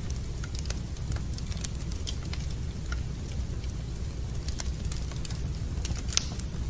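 Wood fire in a fireplace crackling: irregular sharp pops and snaps, one louder pop about six seconds in, over a steady low rumble.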